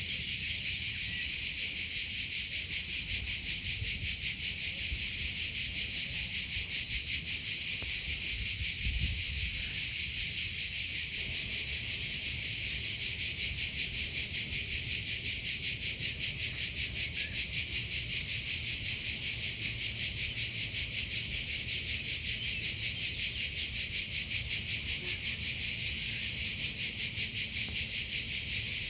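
Cricket chirping without pause in a steady, high-pitched, rapidly pulsing trill.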